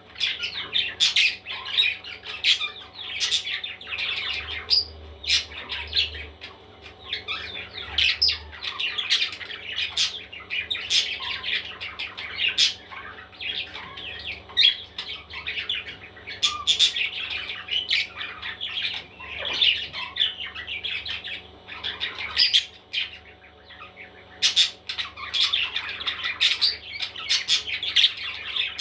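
Baby parrots squawking and chirping in a near-continuous stream of short, shrill calls.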